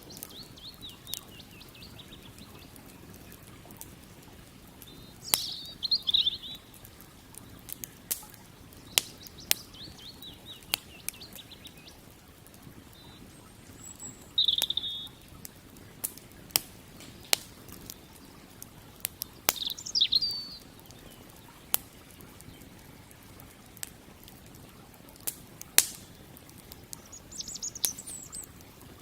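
Campfire crackling, with sharp wood pops scattered every second or so. A small bird chirps in short bursts every few seconds, and a faint steady rush sits underneath.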